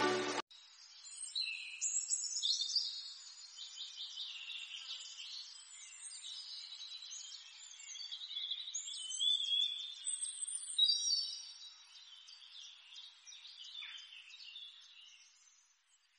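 Several birds singing and chirping together, a busy mix of short high trills and whistled notes that thins out and fades away near the end.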